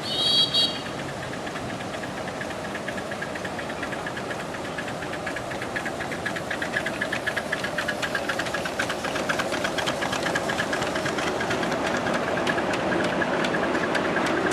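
Miniature railway locomotive giving two short high whistle blasts, then running with a fast, even clicking rhythm that grows louder as the train draws nearer.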